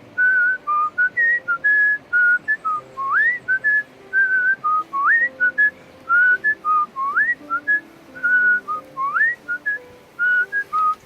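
A person whistling a tune: clear single notes in a repeating phrase, each phrase opening with a quick upward swoop, about every two seconds.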